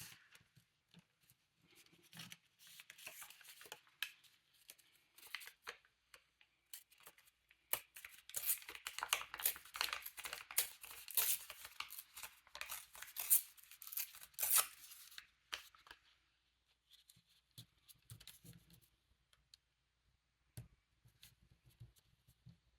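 Paper being worked by hand: a long run of quick, dry, scratchy paper noises, densest and loudest in the middle, then only scattered light rustles and taps.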